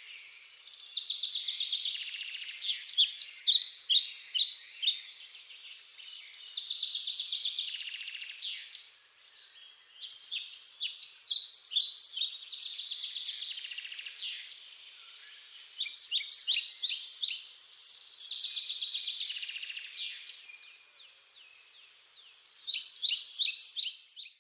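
Songbirds singing in a daytime forest: rapid trills and runs of sharp falling notes, with a new phrase every few seconds and quieter gaps between.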